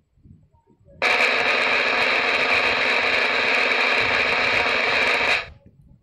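Drum roll sound effect: a steady, dense drum roll that starts about a second in and stops abruptly shortly before the end.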